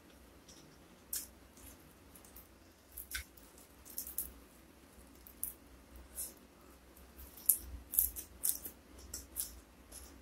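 Close-miked eating sounds: a person chewing a mouthful of fish, rice and raw lalapan vegetables, with irregular crisp crunches and clicks. They come thicker and louder toward the end, as the raw greens are bitten and chewed.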